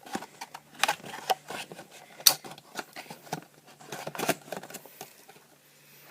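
Plastic packaging being handled: irregular crinkles and clicks, with one sharp click a little over two seconds in, thinning out near the end.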